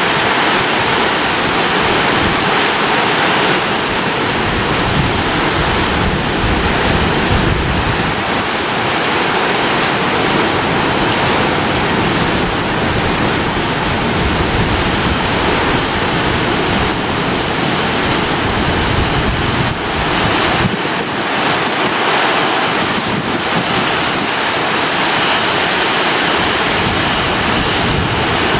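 Strong typhoon wind blowing steadily with a loud rush, in irregular gusts that buffet the microphone with low rumbles.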